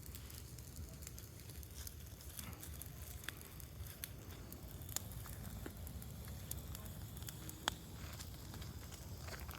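Scattered crackles and sharp pops from fireworks, with two louder pops about five seconds and nearly eight seconds in, over a steady low rumble.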